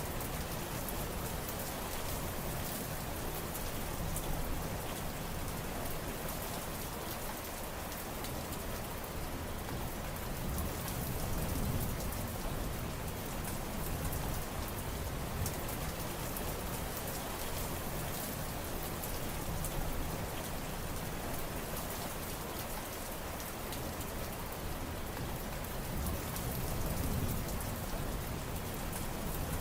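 Steady heavy rain, a dense patter of drops on surfaces, with a soft low rumble that rises and falls in slow swells underneath.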